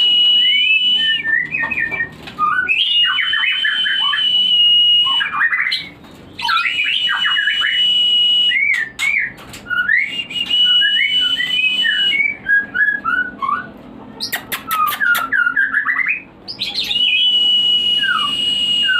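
White-rumped shama (murai batu) song played as a breeding lure: bursts of quick, varied whistled and chattering notes, over a long steady high whistle that repeats five times, each held two to three seconds. A quick run of sharp clicks comes a little past the middle.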